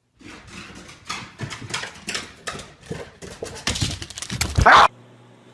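An English bulldog's paws and claws clatter on wooden stairs and a hardwood floor as it runs, in a quick irregular string of scrabbling steps. The steps get louder near the end and stop abruptly.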